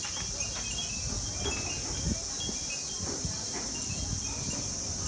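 Wind chimes tinkling, with many short, high ringing notes scattered at random.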